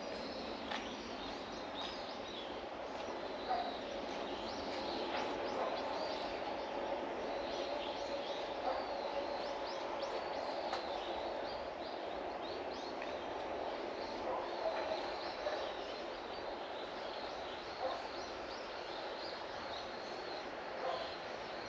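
Outdoor garden ambience: scattered short bird chirps throughout, over a steady low background noise.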